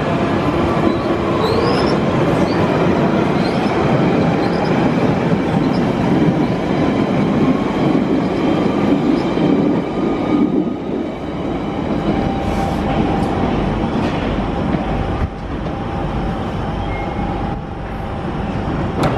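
A London Underground 1992 Stock tube train moving along the platform: wheels on rail with the whine of its motors gliding in pitch. A few sharp clicks sound in the second half.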